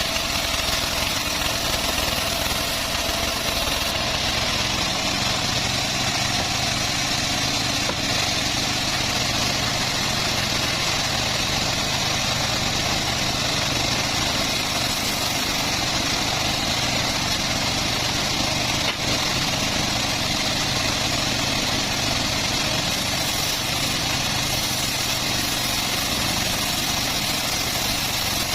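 Engine-driven homemade bandsaw mill running at a steady pace, its motor hum and blade hiss holding even.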